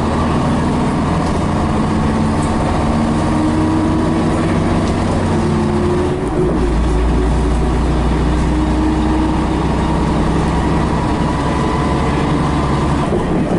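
Scania BR111H bus's diesel engine pulling hard, its note climbing, then a gear change in the two-speed automatic gearbox about six seconds in with a brief dip in level and a drop in pitch, after which the note climbs again.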